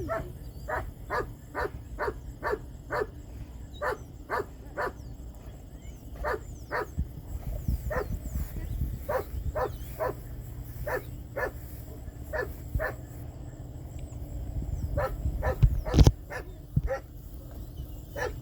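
A dog barking over and over in quick runs of about two to three barks a second, with short pauses between runs. About two-thirds of the way through there is one sharp, loud knock.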